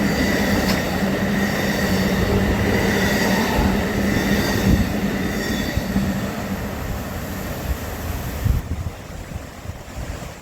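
Amtrak Coast Starlight passenger train rolling past, with heavy running noise and a steady high-pitched wheel squeal. It fades as the train draws away near the end.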